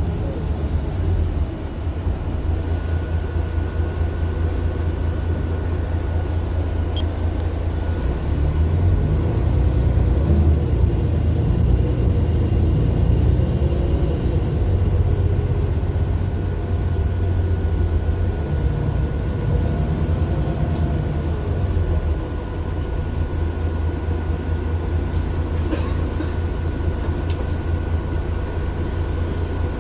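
Interior sound of a 2009 Mercedes-Benz Citaro LE city bus under way, its Daimler OM 457 hLA diesel engine running as a steady low rumble. The engine note grows louder about ten seconds in and eases off after about twenty seconds, with a thin steady whine over it from a few seconds in.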